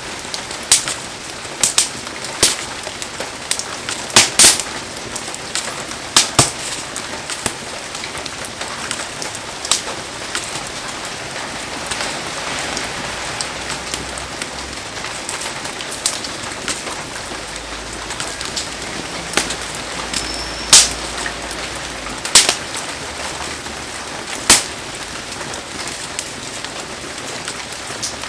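Heavy rain falling steadily, with the bonfire's wood giving sharp, irregular pops and cracks every second or two.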